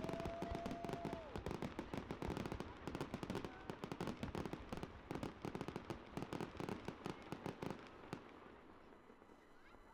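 Rapid, irregular crackling pops, dense for about eight seconds and then dying away, with a short steady whistle-like tone at the very start.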